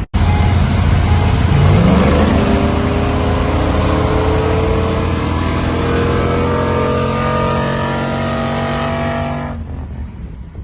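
Truck engine fitted with a custom-grind camshaft, accelerating under load: its note climbs in pitch about two seconds in, then holds a steady, slowly rising drone before falling away near the end.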